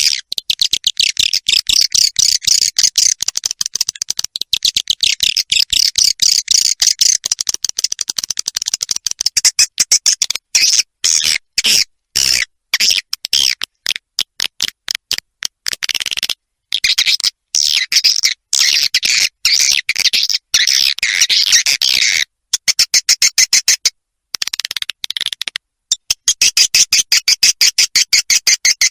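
Recorded edible-nest swiftlet roosting lure call ('suara inap') of the kind played in swiftlet houses: rapid, dense high-pitched twittering chirps in long runs, broken by a few brief gaps.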